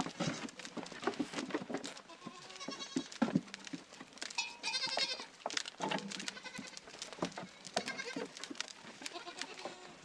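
A flock of livestock bleating, several animals calling over one another in short quavering cries, with scattered small knocks and clicks.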